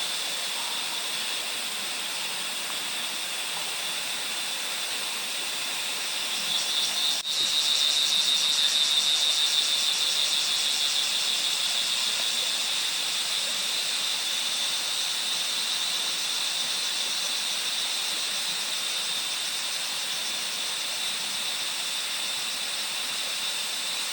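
Forest ambience: a steady, high-pitched insect drone over a background hiss, growing a little louder about seven seconds in.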